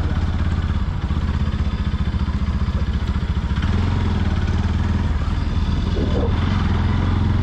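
Bajaj Pulsar NS 200's single-cylinder engine running steadily at an even engine speed.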